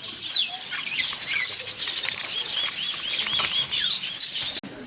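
A flock of African grey parrots calling: a dense, unbroken run of short, high chirps that rise and fall, several a second.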